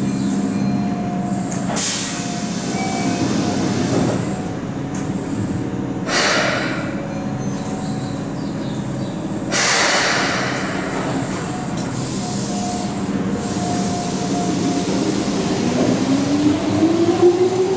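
A Keihan electric commuter train stands at the platform with its equipment humming, and several short hisses of compressed air come as its doors close. Near the end it pulls away and its motors start a whine that rises steadily in pitch as it speeds up.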